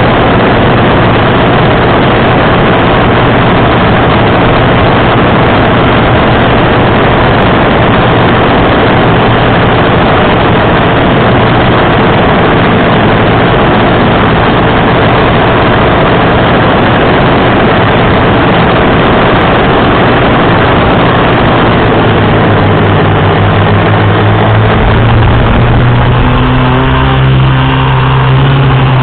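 Electric motors and propellers of a 450-size FPV quadcopter running, loud and close, with a steady hum under a dense hiss. The hum grows steadier in the last few seconds.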